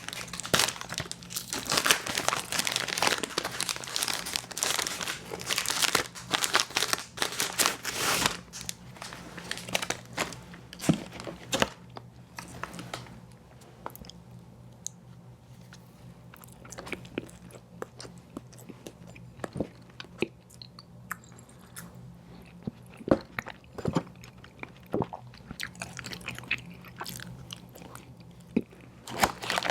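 Close-miked eating of an ice cream sandwich: dense crunching and crinkling for about the first twelve seconds, then quieter chewing with scattered sharp mouth clicks.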